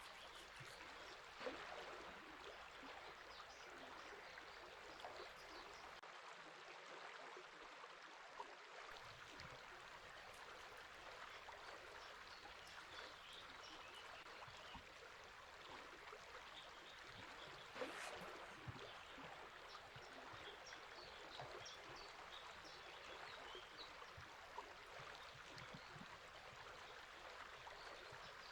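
A river flowing steadily and faintly, with scattered faint high chirps of songbirds over it. Two brief sharp ticks stand out, one about a second and a half in and one a little past the middle.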